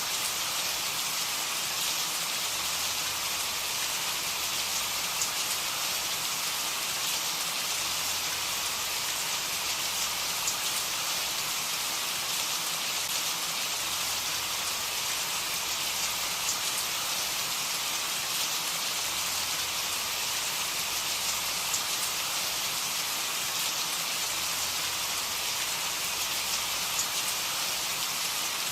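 Steady rain falling: an even hiss of many drops with faint scattered drop ticks, unchanging throughout.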